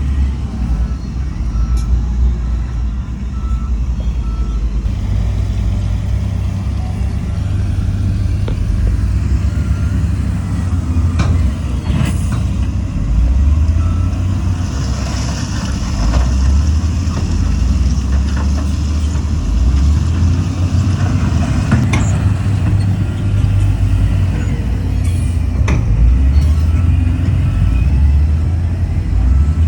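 Heavy diesel engines of earthmoving machinery (bulldozer and dump trucks) run under load, their low drone stepping up and down in pitch. Near the start there is a faint reversing beeper, and midway a steady hiss lasts several seconds.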